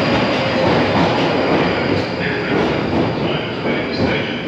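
London Underground Northern line train running through a tunnel, heard from inside the carriage: a loud, steady rush of wheel and track noise. From about two seconds in, short high wheel squeals come and go.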